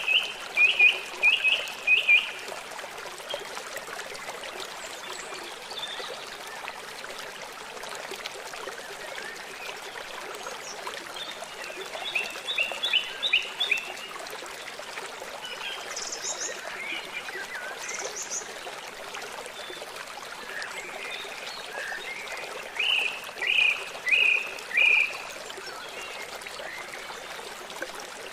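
Birds chirping in short bouts of quickly repeated notes: at the start, about twelve seconds in and again near the end, with two brief higher calls in between. Steady running water of a stream trickles underneath throughout.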